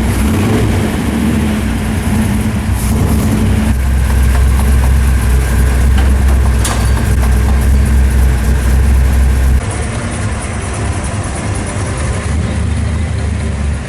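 Supercharged V8 of an XB Ford Falcon Interceptor replica idling just after start-up, deep and steady; about four seconds in the note drops lower and heavier.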